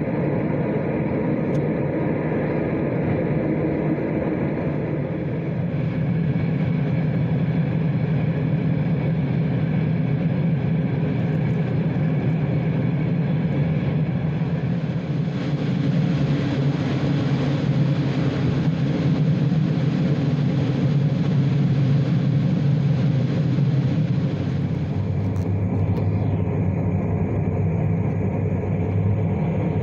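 Train running: a steady, continuous rumble with a low hum underneath and a hiss above, the hiss dulling about 25 seconds in.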